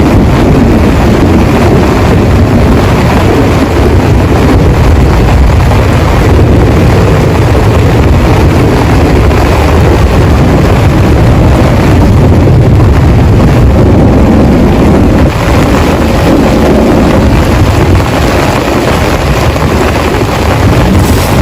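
Heavy rain pouring down in a loud, dense, steady roar, heavy in the low end.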